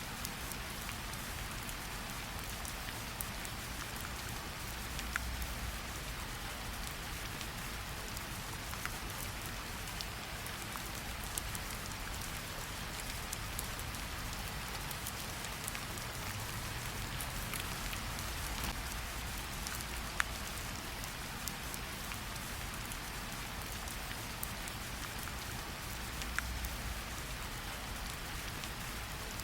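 Steady rain falling: an even hiss with occasional louder single drops ticking.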